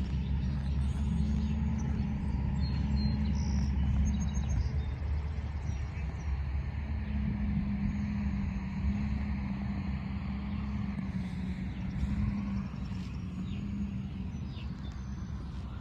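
Steady low rumble of motor traffic with a constant hum, and faint, scattered high bird chirps over it.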